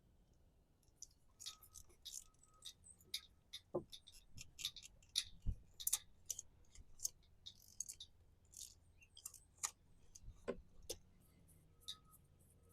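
Irregular sharp metallic clicks and taps of hand tools working at the oil filter of a Yamaha F150 outboard as it is taken off.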